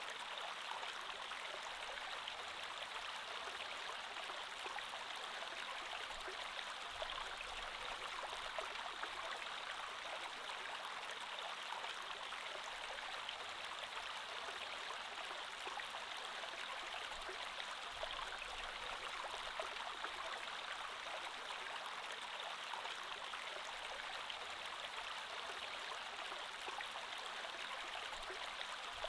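Creek water flowing steadily over stones, a continuous rushing with fine trickling and splashing.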